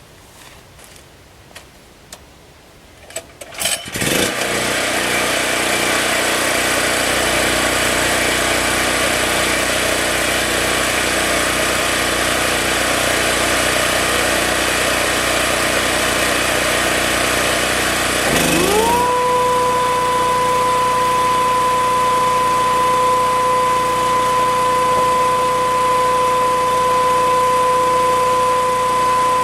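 A few clicks, then an engine starts about four seconds in and runs steadily. Midway through, a thickness planer's motor spins up with a rising whine that levels off into a steady high hum.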